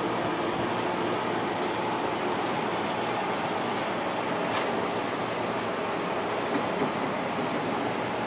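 Fedders 8000 BTU window air conditioner running on low cool: a steady fan rush over the low hum of its Sanyo rotary compressor, running smoothly.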